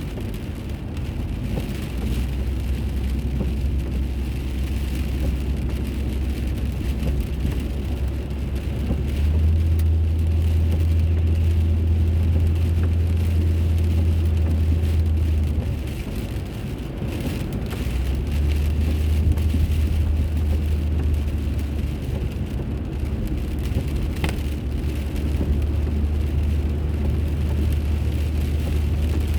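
Car driving on city roads, picked up by an onboard dashcam: a steady low drone of engine and road rumble under a hiss of tyre noise. The drone swells about nine seconds in, drops back around sixteen seconds, and swells again about two seconds later as the car's speed changes.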